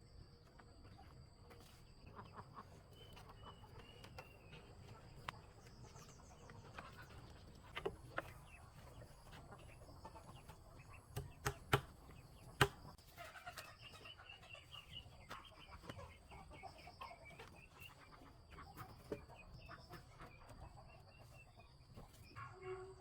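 Chickens clucking faintly, with a series of short calls in the second half. Several sharp knocks stand out in the middle, the loudest in a quick cluster.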